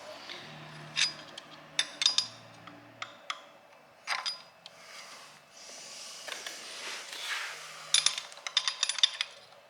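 Metal clinks, taps and scrapes of a Lotus V8 camshaft being worked out of the cylinder head past its tight oil seal. There are sharp clinks about one, two and four seconds in, and a quick run of clinks near the end.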